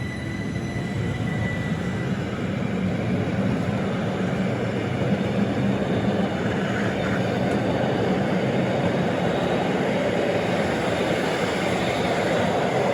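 Rhaetian Railway regional train running along the line: a steady rumble of wheels on rails that grows a little louder, with a thin high wheel squeal fading out in the first two seconds.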